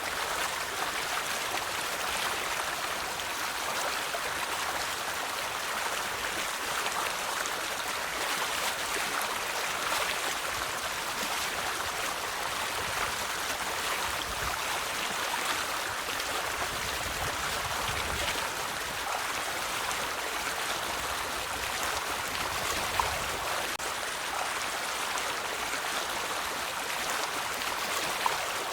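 River water flowing steadily, a continuous rushing and splashing. Two brief sharper splashes or clicks stand out, one past the middle and one near the end.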